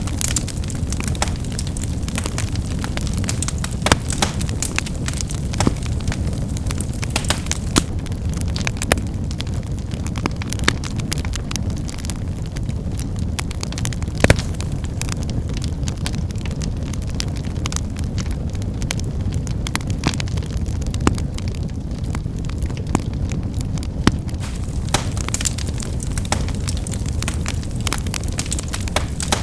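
Wood fire burning, with a steady low rumble under irregular sharp crackles and pops of firewood snapping; one pop about halfway through is louder than the rest.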